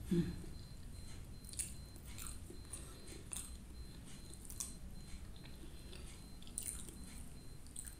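Close-up mouth sounds of chewing plain sticky white rice, with faint wet clicks and smacks every second or so. A brief low throat sound comes at the very start.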